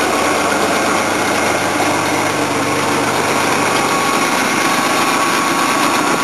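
1987 GMC S15 pickup's engine idling steadily, running again on its first cold start in over a year.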